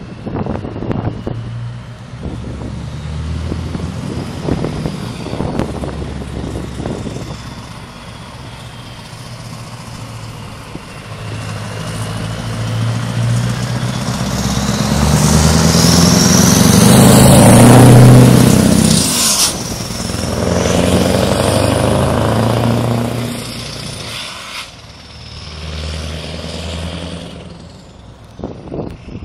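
Scania R500 V8 truck engine pulling away and accelerating, growing louder to a peak about two-thirds of the way through, then dropping off and picking up again twice.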